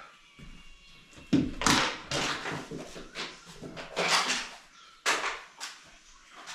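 Parts of a flat-packed shower unit being handled: a few short knocks and rustles as pieces are picked up and put down.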